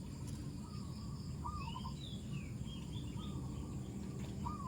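Outdoor garden ambience: birds calling, with a short rising-and-falling whistled note repeated every second or two and higher chirps, over a steady thin insect drone and a low rumble.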